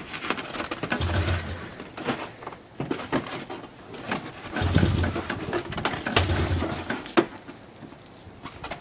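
Snowmobile engine being pull-started cold with the choke on full: three short cranking strokes on the recoil starter, each turning the engine over briefly without it catching, with rattling and knocks between the pulls.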